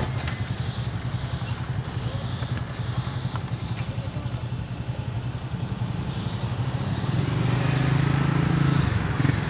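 A motor vehicle's engine running steadily, growing louder about seven seconds in as it comes closer, with a few faint clicks.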